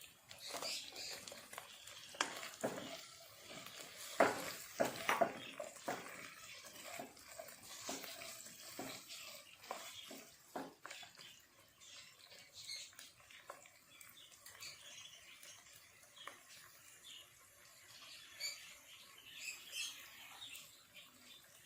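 Food-preparation handling sounds: a run of light knocks and clicks, thickest in the first half, then sparser small clicks and faint squeaky ticks, like ingredients being stirred or handled in a bowl.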